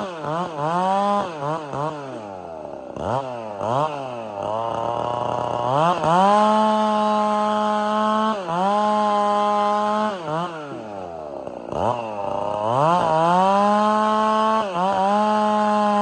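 Two-stroke chainsaw with a 32-inch bar cutting tamarack into firewood rounds. The engine is held at full throttle through stretches of cutting, then drops toward idle and is blipped back up between cuts, twice settling low for a second or two.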